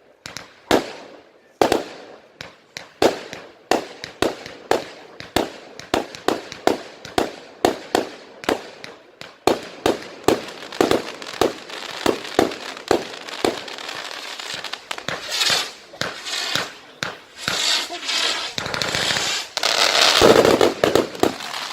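Fireworks going off in quick succession: a run of sharp bangs about two or three a second, giving way about fifteen seconds in to a dense crackling hiss that is loudest near the end.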